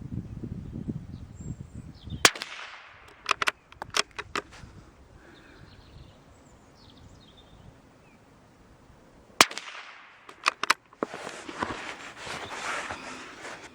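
.22 LR bolt-action rifle (Brno/CZ) firing CCI Velocitor high-velocity rounds: two sharp shots about seven seconds apart. Each shot is followed by a quick run of clicks as the bolt is worked. A rustle follows near the end.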